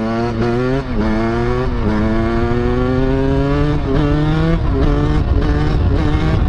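Two-stroke dirt bike engine accelerating through the gears, its revs climbing and dropping back at shifts about one, two and four seconds in, then running fairly steadily.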